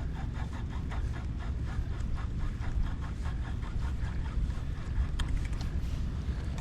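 Wind buffeting the microphone in a steady low rumble, with a quick even ticking of about five a second through the first few seconds and a couple of sharp clicks near the end.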